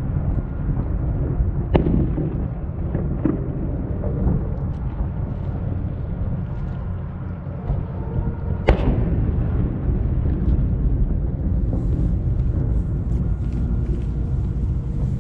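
Distant aerial firework shells going off: a sharp bang about two seconds in, a weaker one soon after, and the loudest boom near nine seconds. Faint crackling comes near the end, over a steady low rumble.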